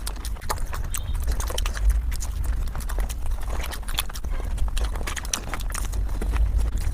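Close-miked mukbang eating sounds played back at five times speed: a rapid, irregular stream of chewing clicks and mouth smacks over a steady low hum.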